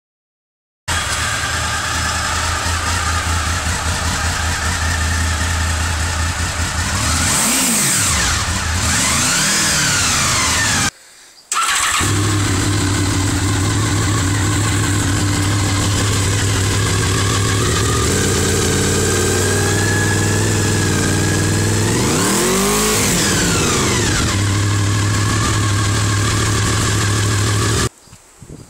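Honda VFR800FI's V4 engine running through an aftermarket Beowulf muffler, idling steadily and blipped twice around the middle and again later, the pitch rising and falling with each rev. The sound drops out briefly twice.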